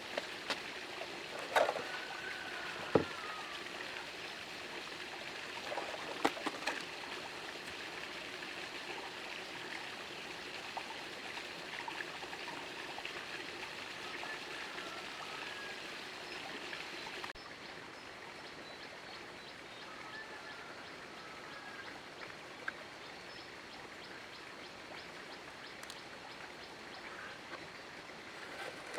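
Water trickling and running steadily, with a few sharp knocks and clicks in the first few seconds. The level drops slightly about two-thirds of the way through.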